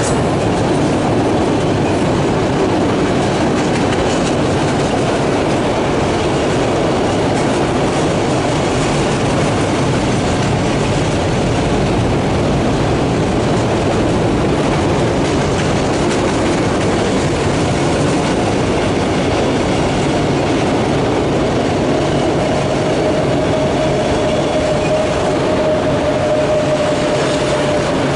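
Freight train of autorack cars rolling past at speed: a steady, loud rumble and rattle of steel wheels on the rails. A thin, steady whining tone joins in near the end.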